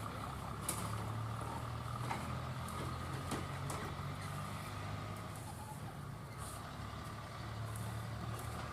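A vehicle engine running with a steady low hum. A few short, sharp, high-pitched calls from Indian ring-necked parakeets cut through it.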